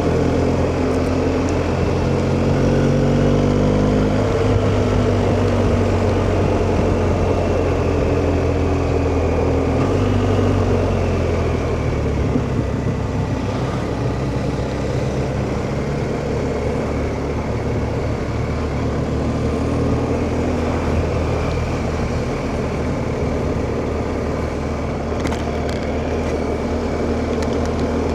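BMW GS boxer-twin motorcycle being ridden, heard from the rider's helmet. The engine rises in pitch as it accelerates in the first few seconds, pulls again, then eases off about twelve seconds in, under steady wind and road noise.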